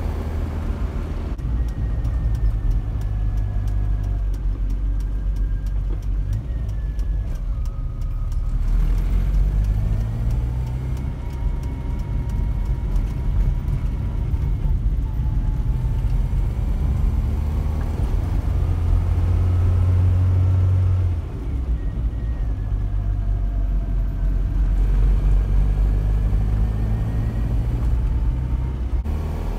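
Classic Rover Mini's A-series four-cylinder engine running under way, heard from inside the cabin: a steady low drone that shifts in pitch a few times, with a faint whine rising and falling above it and a brief dip in loudness about two-thirds of the way through.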